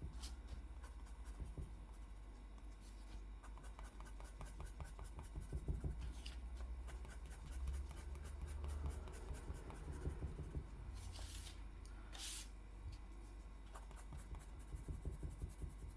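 Faint scratching of a drawing tool stroked quickly back and forth over paper while colouring in, with a couple of brief rustles about two-thirds of the way through.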